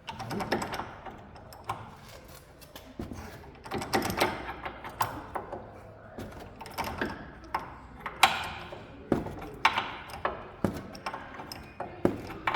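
Metal hand tools clinking and knocking irregularly against a pickup's front-suspension parts as a bolt is worked in. A few sharper knocks come about a third and about two-thirds of the way through.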